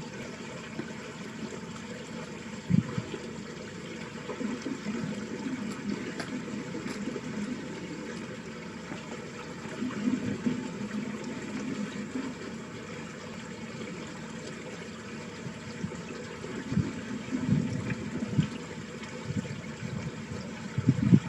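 Water running steadily down a small ditch channel: a continuous rush with low gurgling swells now and then.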